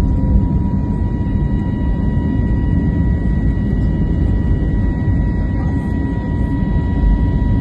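Jet airliner cabin noise during takeoff: a loud, steady engine rumble with a steady high whine running through it.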